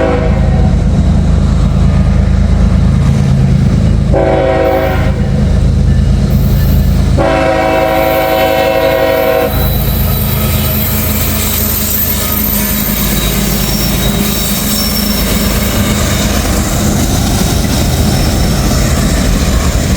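Freight train's diesel locomotive horn sounding the grade-crossing signal: a long blast ending at the start, a short blast about four seconds in, then a long blast of about two seconds, a chord of several notes. Under it the heavy rumble of the locomotives passing, then the freight cars rolling by with steady wheel noise, clickety-clack and light wheel squeal.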